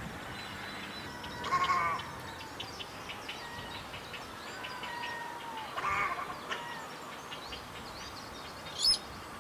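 Bird calling: a harsh, bleating call about one and a half seconds in, another around six seconds, and a short loud one near the end, with thin high chirps and a brief whistle between them.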